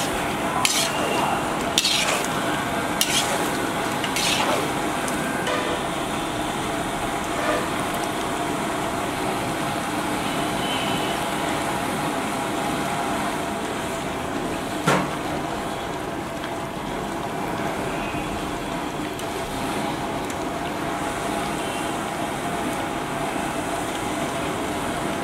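Chicken and pineapple sizzling steadily in a large iron wok, with a metal spatula scraping and clanking against the pan a few times in the first seconds and once more about halfway through.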